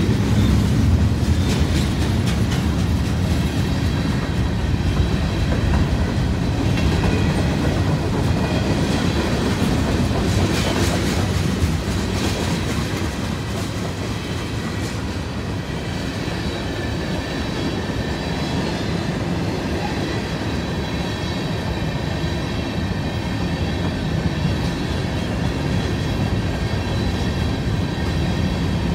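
Freight cars of a long mixed freight train rolling past close by: a steady low rumble with the clatter of steel wheels over the rail joints, and thin, steady high tones over it in the second half.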